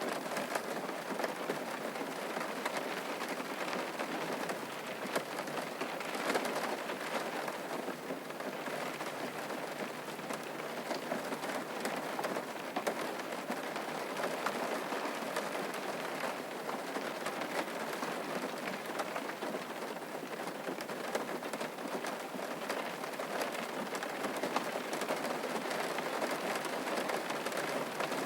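Steady rainfall pattering on a surface, a dense even hiss of drops with fine individual drop ticks.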